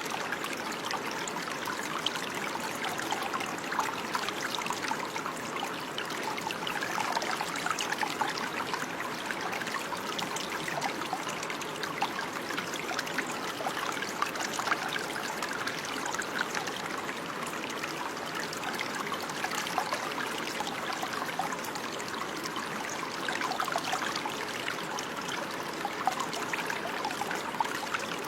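Running water flowing in a steady trickle, with many small splashes and no pauses.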